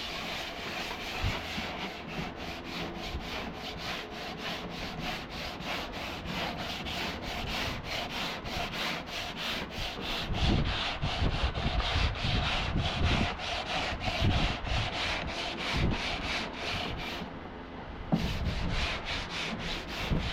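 Sanding by hand on truck cab bodywork, in quick back-and-forth strokes about three a second. There is a short pause near the end before the strokes start again.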